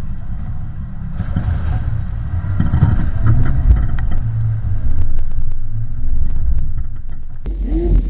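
Off-road vehicle driving over a rough trail: a steady low rumble with scattered knocks and rattles from the bumps. The sound changes abruptly near the end.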